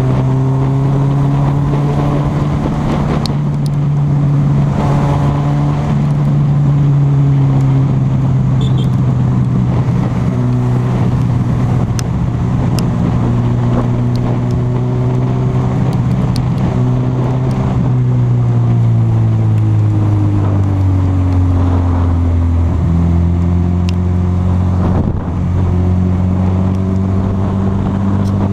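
Honda CB1000R's inline-four engine running at steady cruising revs while riding. About two-thirds of the way through, the engine note falls as the bike slows, then holds at lower revs.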